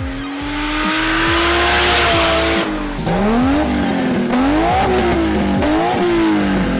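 A car engine revving: the pitch climbs steadily for about two and a half seconds with tyre squeal over it, then rises and drops in a run of quick throttle blips. A steady electronic beat thuds underneath.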